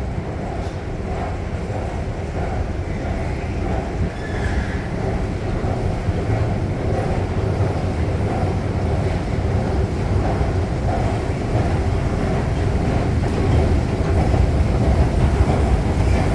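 Subway train running with a steady low rumble that grows gradually louder.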